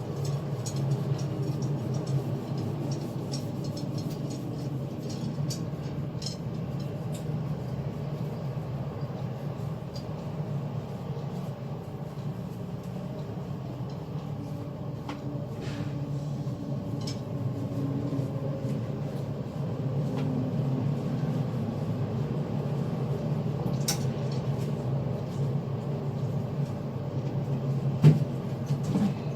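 A steady low machine hum with scattered light clicks, and a couple of louder knocks near the end.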